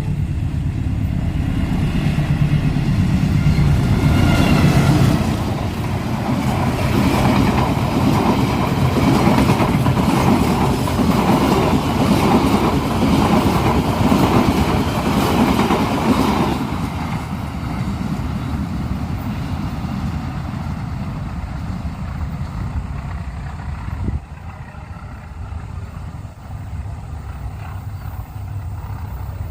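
Gajayana express passenger train passing at speed: a loud, steady rush and rumble of the coaches on the rails for about sixteen seconds, then falling away to a fainter rumble as the train moves off.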